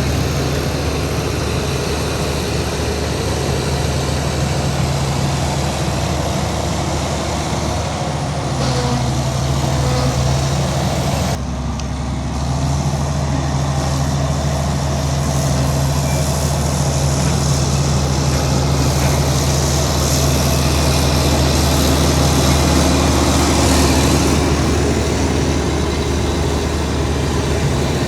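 Heavy diesel earthmoving machinery running under load, a steady low engine drone whose speed shifts down about eight seconds in and picks up again after a brief dip near twelve seconds.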